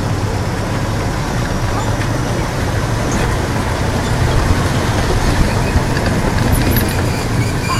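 Steady engine drone and rolling noise of a park ride train in motion, heard from aboard.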